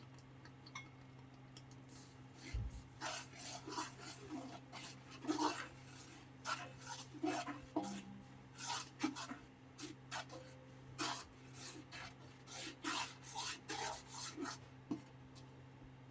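Irregular scraping and rubbing strokes, about two dozen, starting a couple of seconds in, over a steady low hum.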